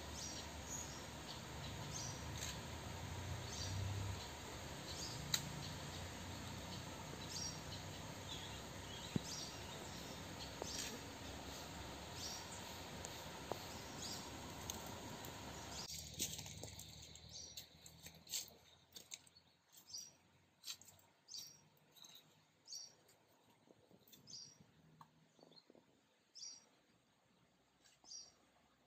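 Outdoor ambience with a bird chirping: short high chirps repeating roughly once a second over a steady background noise. The background drops away suddenly about halfway through, leaving the chirps more exposed.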